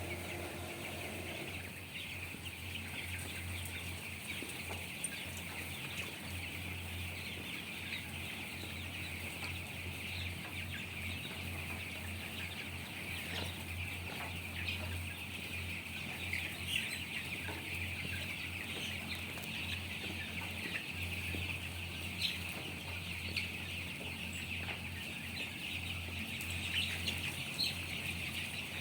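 A large flock of 17-day-old chickens cheeping all at once in a dense, continuous chatter, over a steady low hum.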